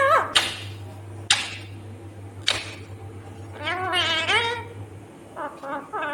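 Indian ringneck parakeet calling: three short harsh screeches in the first half, a wavering chattering call about four seconds in, and short chirps near the end. A steady low hum runs underneath.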